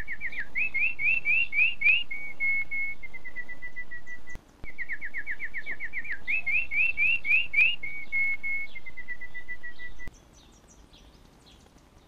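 A songbird's song given twice, each phrase a quick run of falling notes, then a run of rising notes, then steady repeated notes that step lower at the end. Each phrase starts and stops abruptly, with a brief silence between the two.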